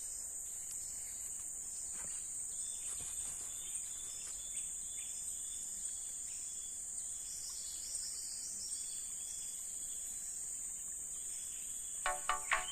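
Steady high-pitched chorus of insects, crickets or similar, with a few faint clicks. Music with a beat starts near the end.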